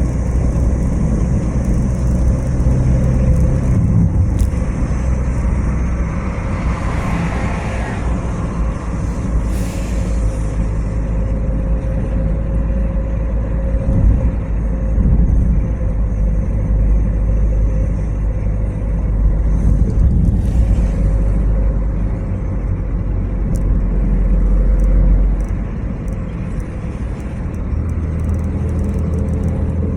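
A car travelling along a road: a steady low rumble of engine and tyres, with a faint even hum and a couple of brief swells in the noise.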